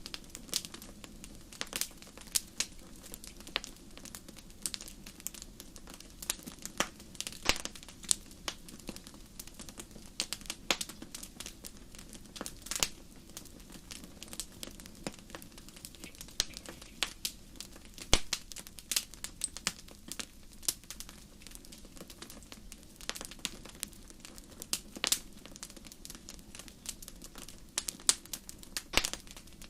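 Wood fire crackling: irregular sharp pops and snaps, several a second, some louder than the rest, over a low steady hiss and rumble of burning.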